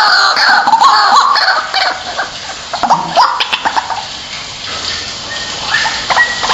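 White-breasted waterhen calling: a fast run of loud, harsh repeated notes for about the first two seconds, then scattered, quieter notes.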